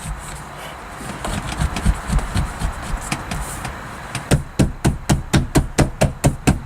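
Rustling and scraping for a few seconds, then a fast run of sharp knocks, about five a second, on the car's sheet-metal roof panel as sound-deadening mat is pressed into place.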